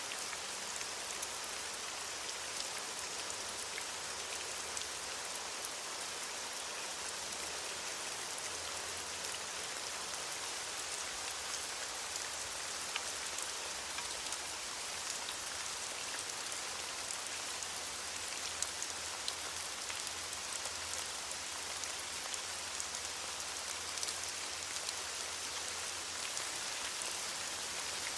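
Steady rain falling on leaves: an even hiss with scattered individual drop ticks.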